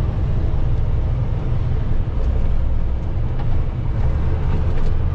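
Big-rig truck cab interior: the engine and road noise make a steady low drone while the truck drives along slowly.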